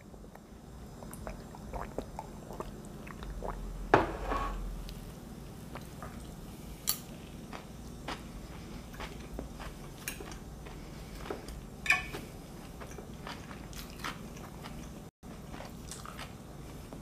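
Close-up chewing and crunching of a mouthful of salad, with a few sharp clicks of a fork against the plate scattered through, the loudest about four seconds in and again near twelve seconds.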